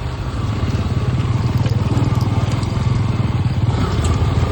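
Motorcycle engine running steadily under light throttle on a rough off-road track, with a few faint clicks and rattles.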